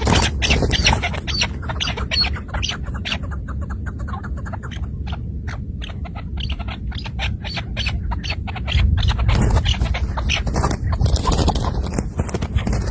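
Chukar partridges calling: a rapid series of short, sharp notes that thins out around the middle and picks up again, over a steady low rumble.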